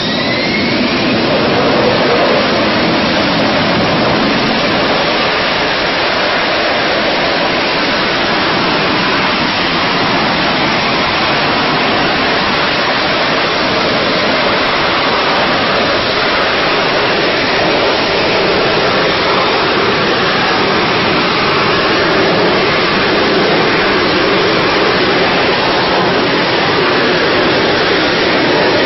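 Loud, steady rushing noise of a jet fighter's engine running at high power, with a faint rising whine during the first second.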